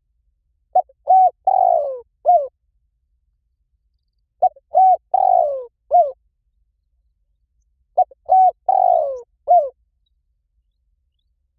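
Spotted dove cooing: the same four-note phrase, a short note, a pair of notes, then a longer falling note and a short closing note, repeated three times about every three and a half seconds with dead silence between. It is a looped recording played as a lure to call wild doves in.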